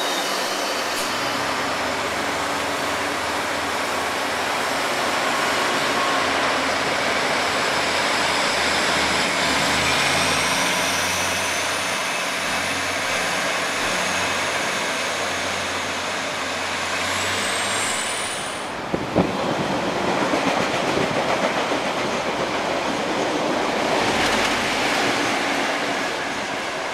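Diesel multiple unit (Auckland ADL/ADC class) running, with a steady engine hum and a rising whine about ten seconds in as it pulls away. The sound breaks off suddenly after about 19 seconds, and a diesel locomotive hauling a freight train is heard approaching, getting louder near the end.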